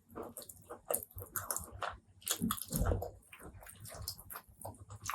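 Close-miked eating sounds: wet chewing with irregular sharp clicks and lip smacks, loudest a little past the middle.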